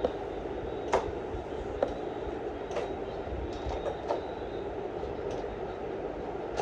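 Steady rain with a dense, even patter, and heavier drops landing irregularly on a hard surface as separate sharp ticks.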